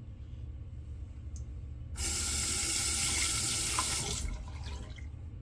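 Sink tap turned on and water running into the basin for about two seconds, starting abruptly about two seconds in and then shut off.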